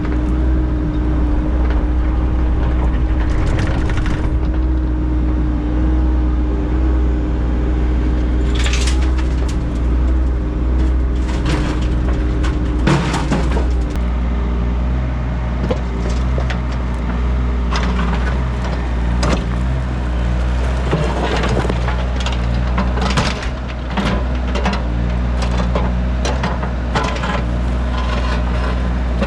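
Heavy equipment engine running steadily, with repeated cracks, knocks and crunches of material being broken up and dug out.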